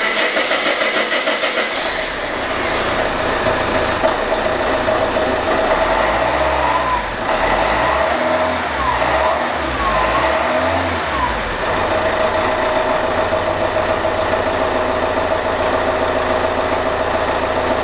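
Car engine idling just after a new ribbed serpentine belt, tensioner and idler pulleys were fitted. It is given a few quick revs near the middle and then settles back to a steady idle, as a test for the whine on acceleration that the owner had blamed on a worn idler pulley.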